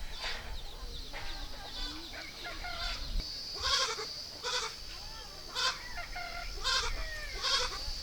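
Short animal calls, repeated about once a second from about three seconds in, over a steady high tone.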